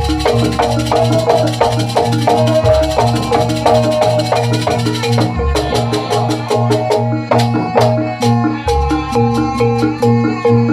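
Jaranan ensemble music: a steady rhythm of struck metallophone notes over a low drum pulse, with a shaker-like rattle. About five seconds in the high hiss drops away and sharp clicking strikes come to the fore.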